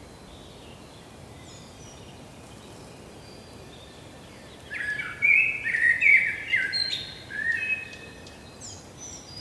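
Songbirds singing and chirping in a forest over a faint steady background hiss. The song breaks in loudly about halfway through as a string of quick high phrases, then thins out near the end.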